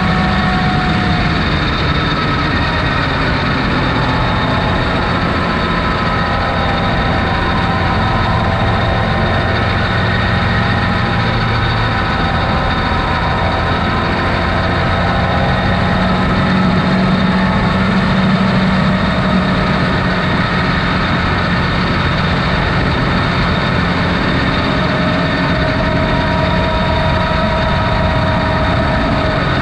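Off-road vehicle engine running steadily as it drives, its pitch drifting slowly up and down.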